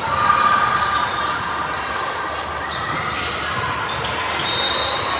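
Basketball game in a gymnasium: a ball bouncing on the court amid voices of players and spectators, all echoing in the large hall.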